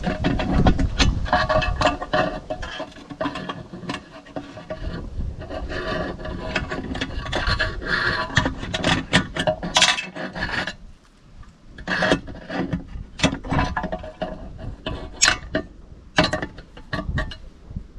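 Hand work on lawnmower fuel-system parts: scraping and rubbing with many sharp clicks and knocks, quieter for a moment about two-thirds of the way through.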